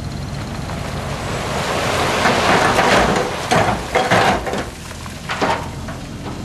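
Heavy vehicle or machine engine running steadily, with a few seconds of loud, rushing, crackling noise in several surges about two seconds in.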